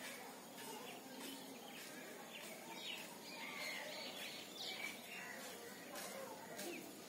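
Faint outdoor background with small birds chirping now and then: a few short chirps in the middle.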